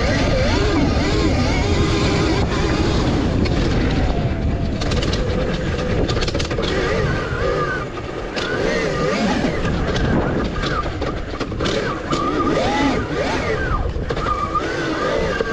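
Electric dirt bike being ridden: a steady wind rumble on the microphone, with a motor whine that rises and falls in pitch as the throttle changes, and scattered knocks from the bike over rough ground.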